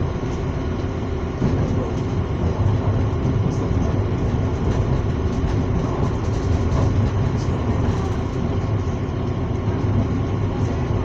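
Srbija Voz passenger train running along the line, a steady rumble of wheels on rails and carriage noise.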